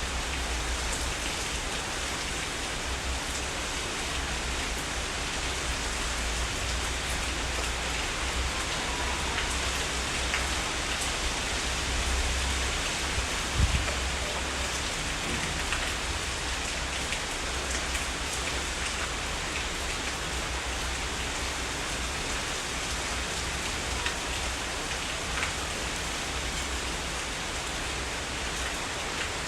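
Heavy rain falling steadily: a dense, even hiss of drops with a low rumble underneath, and one brief louder hit about halfway through.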